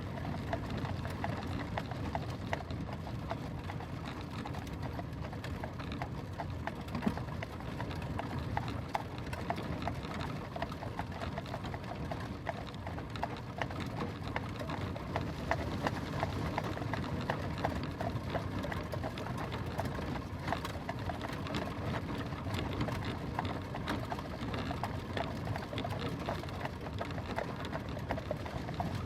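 Horse-drawn carriage on the move: hooves clip-clopping with the carriage rattling and rumbling, a dense, unbroken run of small knocks over a steady low rumble.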